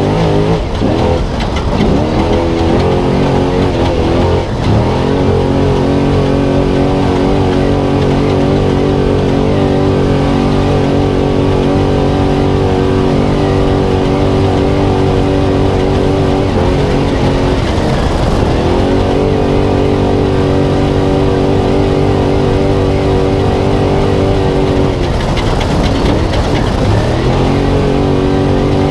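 Spec Trophy Truck engine running hard at high revs. The revs briefly drop and climb back four times: about a second in, a few seconds in, around the middle, and again near the end, as the driver lifts and gets back on the throttle.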